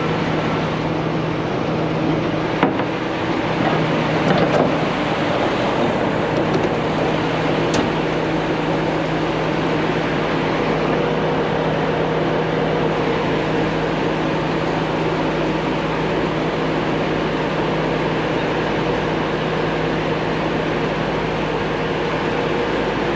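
Large truck engine running steadily at an even speed during a slow reversing manoeuvre, with a few faint knocks early on.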